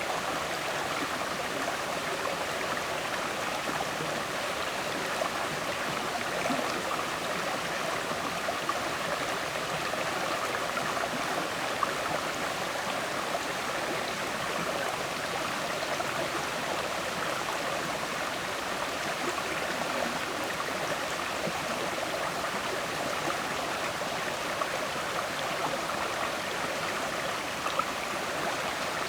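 River water flowing and gurgling: a steady, unbroken rushing with small splashes.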